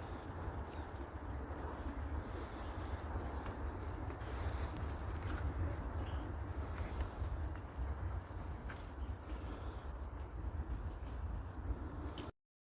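Forest ambience: a steady high-pitched insect drone with short high calls repeating every second or two, over a low rumble. The sound cuts off abruptly near the end.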